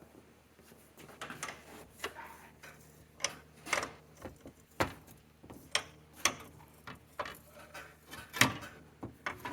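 Irregular clicks and knocks of tools and parts being handled, about one or two a second, the loudest right at the end.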